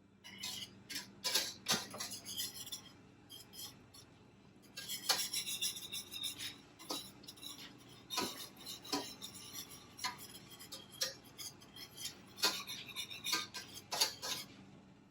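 A kitchen utensil stirring and scraping in a pan of sauce, with irregular clicks and scrapes against the pan.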